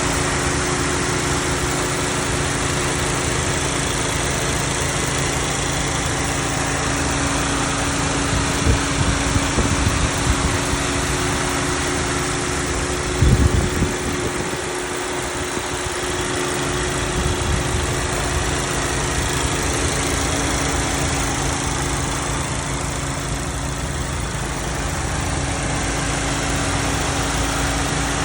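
2025 Acura Integra A-Spec's 1.5-litre turbocharged four-cylinder engine idling steadily, heard with the hood open. A few brief louder low bumps come around the middle.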